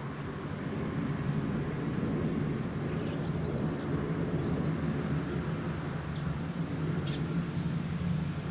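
Engine of a rice combine harvester running steadily in a low drone, with a few faint short high chirps over it.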